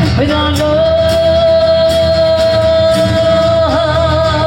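A singer holds one long high note for about four seconds, with a brief dip in pitch near the end, over live band accompaniment.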